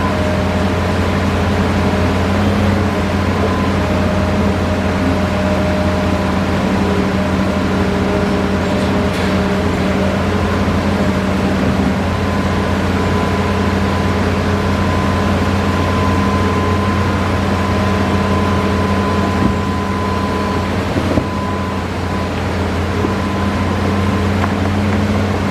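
Hitachi Zaxis 5G hydraulic excavator's diesel engine running steadily, with a deep even drone and a thin, steady high whine over it.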